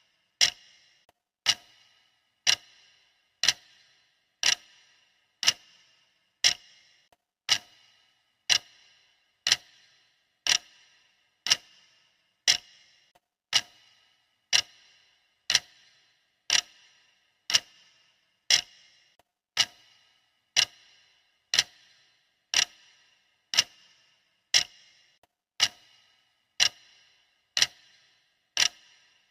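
Clock ticking steadily, one sharp tick a second: the countdown timer's ticking track.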